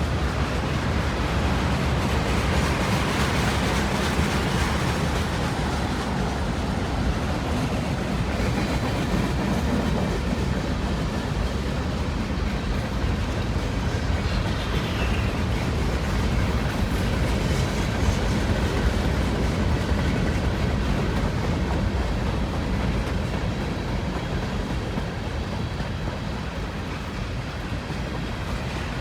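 Freight cars of a long Union Pacific mixed manifest train rolling past, a steady noise of steel wheels running on the rails.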